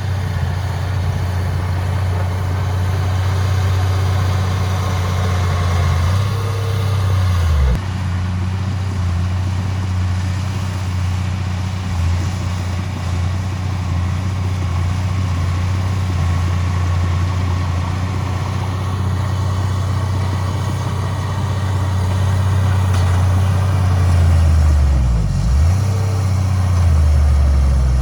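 Heavy diesel engine of earthmoving machinery running steadily, its revs dropping suddenly about eight seconds in, then dipping and picking up again near the end.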